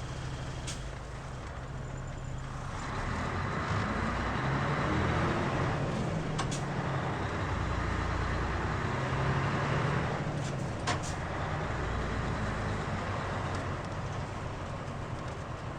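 Mitsubishi Fuso KL-MP37JK city bus's diesel engine running at low revs, then growing louder about two and a half seconds in as the bus pulls away and accelerates, before easing off. Heard from inside the cabin, with a few short sharp clicks along the way.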